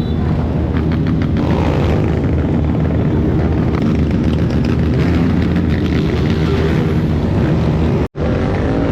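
Motorcycle engines running and revving together in a continuous, loud mass of engine noise, which cuts out for an instant about eight seconds in.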